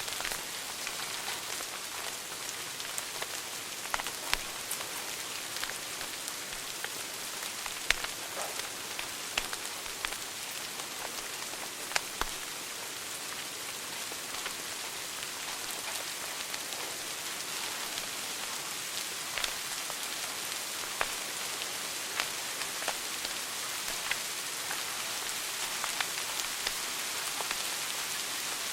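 Wood fire burning in a fireplace: a steady hiss with irregular sharp crackles and pops, a few louder ones about 4, 8 and 12 seconds in.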